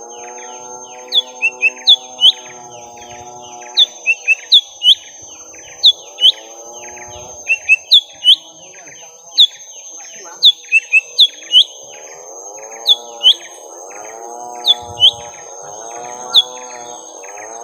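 Young lesser green leafbirds (cucak ijo mini) calling in a fight: loud, sharp, downward-swept chirps in quick clusters of two to four, over a lower warbling layer of arching notes.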